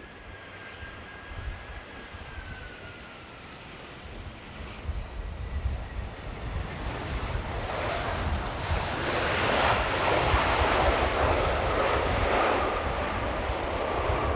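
Airbus A319 jet airliner on landing approach: a whine falling in pitch early on, then the jet noise swells to a loud roar about nine seconds in, leaving a steady whine. Gusty wind rumbles on the microphone throughout.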